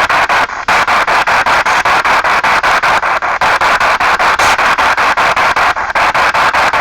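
P-SB7 spirit box scanning through radio stations: loud static chopped into even slices at about seven a second, with a few brief dropouts, about half a second in, around three seconds and near six seconds.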